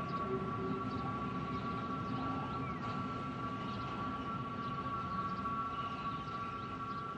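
Freight train of hopper wagons rolling past through a level crossing: a steady rumble of wheels on rail, with a steady high two-note tone held over it that fades slightly near the end.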